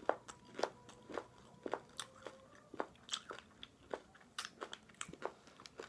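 Close-up chewing of malted milk egg candies: the crisp candy shell crunching in short, irregular bites, a few crunches a second.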